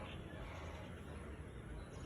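Steady outdoor background noise with a faint, short bird chirp under half a second in.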